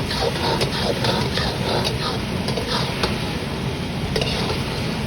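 Restaurant kitchen during cooking: a steady hum of noise with scattered short clicks and scrapes of utensils, and faint voices.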